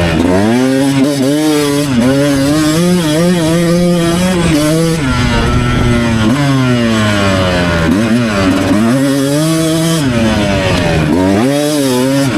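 Beta 200 Race Edition dirt bike's single-cylinder two-stroke engine being ridden hard, its revs rising and falling over and over as the throttle is opened and closed.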